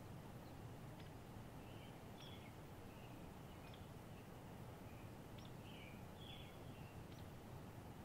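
Faint birds chirping, with short high calls and brief twittering phrases every second or so, over a low steady background hiss.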